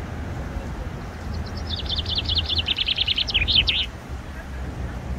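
A small songbird singing a fast trill of short, high chirps, about ten a second for some two and a half seconds, dipping a little in pitch near the end. A steady low background rumble runs underneath.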